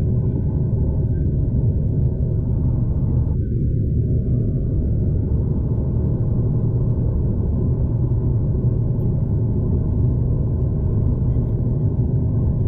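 Steady low rumble of a moving V/Line passenger train, heard from inside the carriage.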